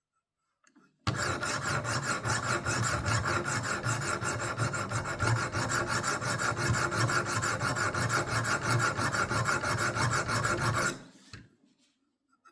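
Abrasive sharpening stones of a Wicked Edge WE60 guided sharpener stroking rapidly and steadily along the steel edge of a dull butter knife. The rasping grind starts suddenly about a second in and stops near the end. The stone is grinding a new edge to raise a burr on a section that has none yet.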